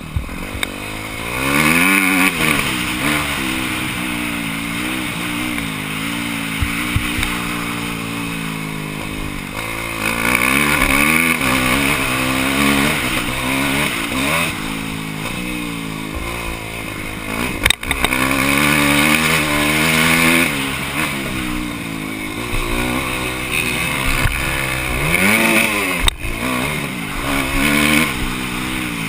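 Motocross motorcycle engine, heard close from an on-board camera, its pitch rising and falling over and over as the rider accelerates and backs off. Two brief sharp knocks break in, one past the middle and one near the end.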